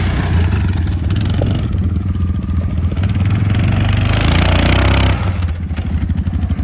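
ATV (quad) engine running under throttle, then easing off suddenly about five seconds in to a lower, slower pulsing idle.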